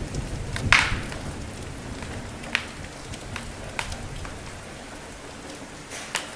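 Steady rain falling, with scattered sharp pops and crackles of a wood fire, the loudest a little under a second in. A low rumble of thunder dies away in the first second or so.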